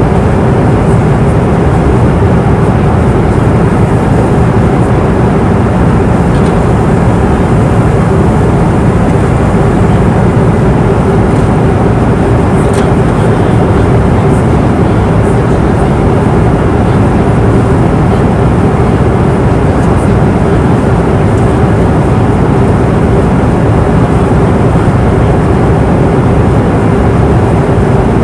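Steady roar of an airliner cabin in cruise: jet engine and airflow noise, deep and even, with a faint steady hum running through it.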